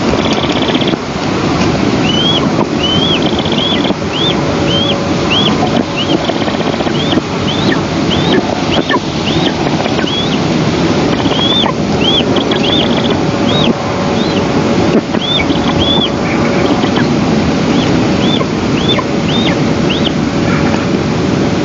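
Wind rushing over the nest-camera microphone, with a long run of short, thin, high calls, about one and a half a second, each rising and falling in pitch: an eastern imperial eagle nestling begging for food.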